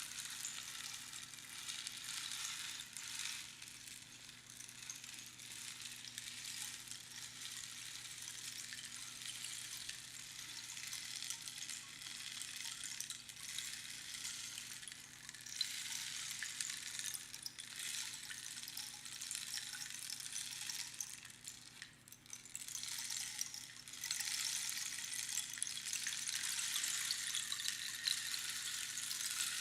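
A rainstick being tipped, its pebbles trickling down past the pins inside in a continuous rain-like hiss that swells and fades. One pour dies away about 22 seconds in, and a fuller one starts a couple of seconds later.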